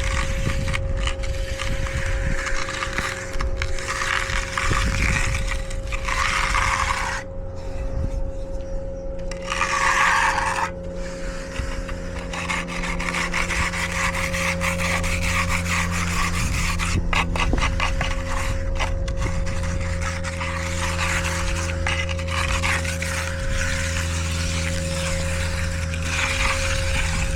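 A hand finishing tool scraping in repeated strokes across wet concrete, with the loudest strokes in the first ten seconds or so. A steady low engine hum runs underneath.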